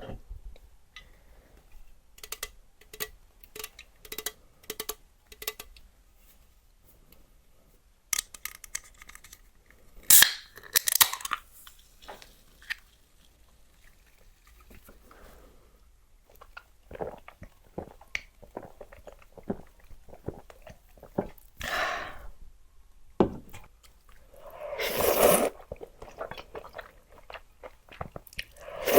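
Close-up eating of spicy luosifen rice noodles: chewing and crunching in short bites, with a few louder, longer slurps of the noodles about ten, twenty-two and twenty-five seconds in.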